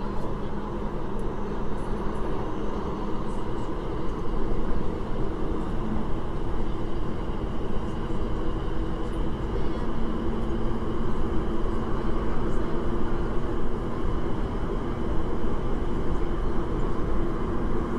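SP1900 electric multiple unit train running at speed, heard from inside the carriage: a steady rumble of wheels on rail, with a faint tone that slowly rises in pitch.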